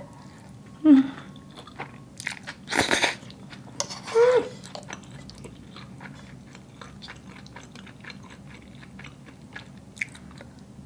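Close-miked chewing of a mouthful of spaghetti: wet mouth clicks and smacks, with a noisy slurp about three seconds in. Two short closed-mouth hums come about one second and four seconds in.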